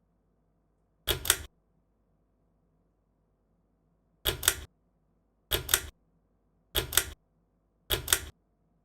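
Ceiling fan's switch clicking five times, each a quick double click. The first comes about a second in and the other four follow a second or so apart, starting about four seconds in.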